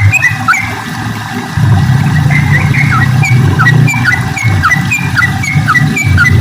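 Yellow-vented bulbul (trucukan) calling, a lively run of short chirps, each a high note dropping into a falling slur, about two a second. Under it is a loud low rumble that grows louder about a second and a half in.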